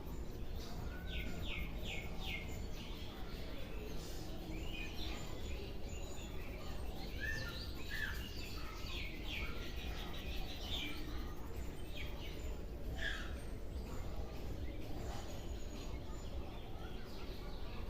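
Birds chirping now and then over a steady low background noise: short chirps in quick runs and a few brief pitch glides.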